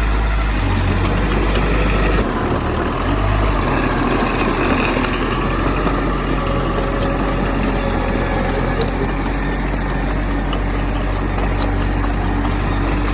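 Heavy diesel earthmoving machinery running steadily, a bulldozer or dump truck engine, with a sudden shift in the low engine note about two seconds in and a few faint metallic clicks.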